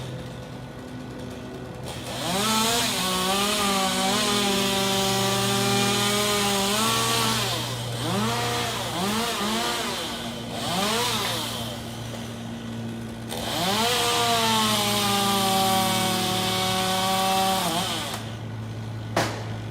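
Two-stroke chainsaw revving up and held at full speed for several seconds, then blipped in a few short revs, then run up again for a second long stretch before dropping back to idle. A steady low hum runs underneath, and a short sharp knock comes near the end.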